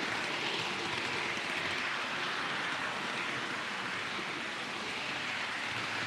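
Model train running on a layout: a steady rushing, whirring noise with slow gentle swells.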